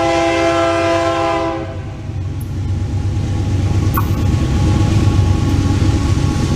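Diesel locomotive's air horn sounding a held chord that cuts off about a second and a half in, followed by the low rumble of the locomotive, growing louder toward the end.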